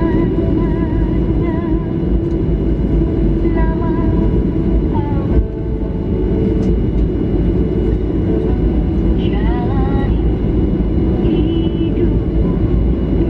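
Steady roar of jet engines and rushing air inside a Boeing 737-800's passenger cabin, with faint background music over it.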